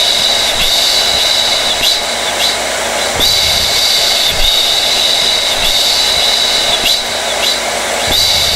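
Hair dryer running steadily: a loud, airy rush of blown air with a high-pitched motor whine that briefly dips every second or so.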